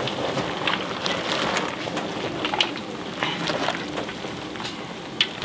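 Food sizzling and crackling in hot oil on a pan or griddle, with a steady frying hiss and many small pops.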